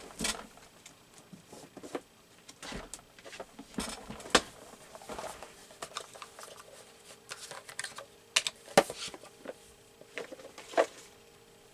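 Scattered light clicks, taps and rustles of hands handling craft supplies and Post-it note tape on a desk, with a few sharper taps.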